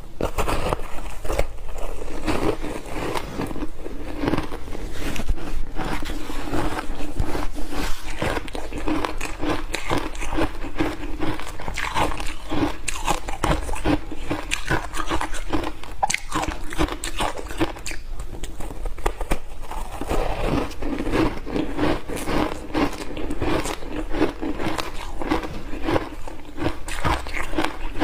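Refrozen block ice being bitten and chewed in big mouthfuls: a dense, continuous run of sharp crunches and cracks.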